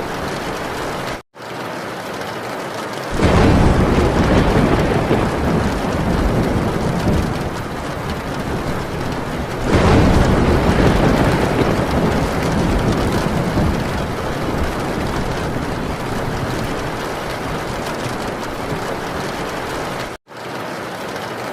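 Heavy rain drumming steadily on a metal tin roof, with thunder rumbling in twice, about three seconds in and again near ten seconds, each peal swelling and slowly fading. The sound cuts out for an instant twice, early on and near the end.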